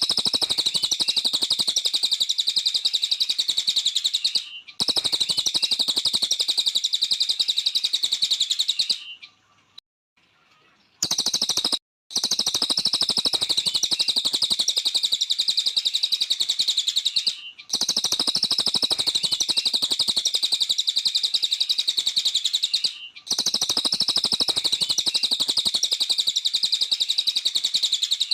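A cililin bird singing a rapid, high, buzzing trill in long bouts of several seconds, each broken by a short pause, with a longer silent break about nine seconds in.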